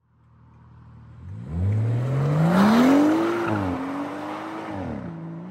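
BMW M140i's turbocharged 3.0-litre straight-six accelerating hard: the engine note climbs steeply, drops at an upshift about three and a half seconds in, climbs again and shifts once more near the end, fading as the car pulls away.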